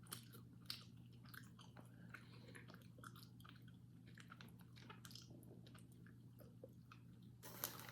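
Quiet chewing of a hard, chewy kneaded plum and honey candy, with small wet mouth clicks over a low steady hum.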